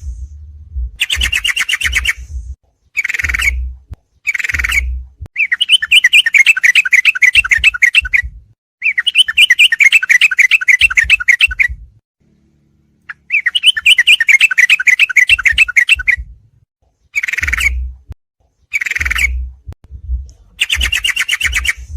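Yellow-vented bulbul (trucukan) song played as a training recording: a series of loud, rapid bubbling trills, each phrase lasting from half a second to about three seconds with short pauses between them, and a longer pause about halfway through. A low rumble runs under each phrase, as from an overdriven recording.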